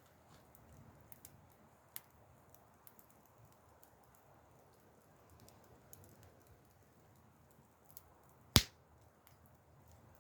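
Wood campfire crackling softly, with scattered small pops and one sharp, loud pop a little past the middle, about 8.6 s in.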